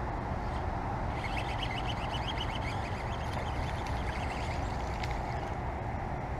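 Steady outdoor background noise, with a bird chirping in a quick series of short, high notes from about one second in to about five seconds in.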